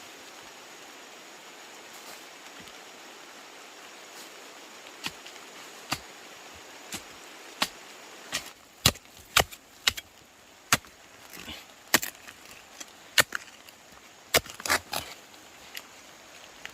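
A hand tool chopping: sharp single strikes, a few spaced out at first, then a quicker, louder, uneven run of blows in the second half.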